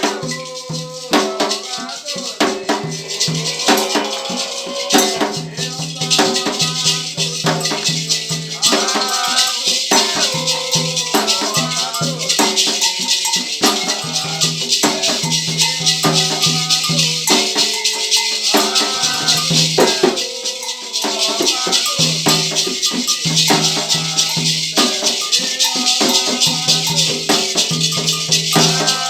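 Devotional Candomblé singing in short repeated phrases, with a rattle shaken steadily throughout.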